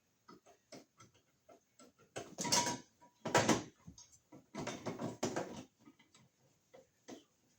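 Handling noise from fitting a Wiremold surface-mount electrical box onto a wall: a run of small clicks and taps, with three louder scraping, rubbing bursts between about two and five and a half seconds in.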